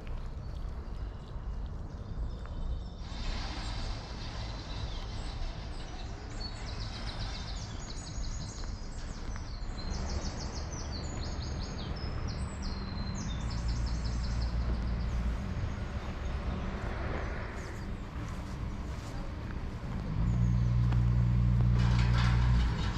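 Small birds singing in quick repeated chirping phrases over a steady low rumble. Near the end a louder low hum rises for a couple of seconds and stops abruptly.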